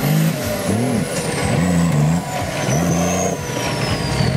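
Off-road 4x4's engine revving up and falling back in repeated surges, about four in a few seconds, as it climbs a steep muddy slope under load.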